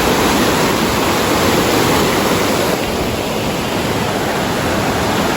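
A fast-flowing river rushing steadily, running high with a strong current.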